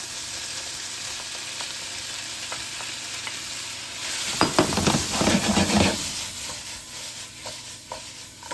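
Vegetables and tomato sauce sizzling steadily in a frying pan. About four seconds in, louder sizzling and stirring lasts a couple of seconds as the cooked chicken strips are stirred in, followed by a few light knocks of the utensil on the pan.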